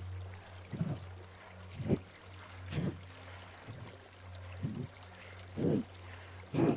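Kapalabhati breathing: a person forcing short, sharp exhales out through the left nostril, about seven puffs roughly one a second. A faint flowing stream runs underneath.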